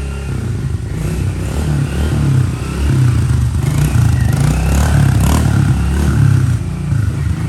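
Turbo LS V8 engine running loud and revving unevenly, in an engine the owners suspect has a rod knock.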